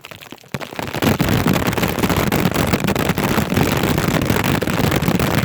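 Heavy hurricane rain pelting the plastic bag wrapped around the recording phone: a dense, loud crackling patter, like hail, that sets in about a second in.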